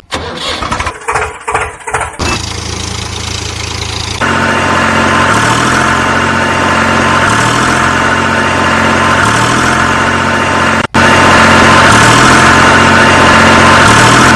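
An engine turning over in choppy, uneven bursts for about two seconds, then catching and running steadily with a slow, regular pulse. It cuts out for an instant near the end and carries on a little louder.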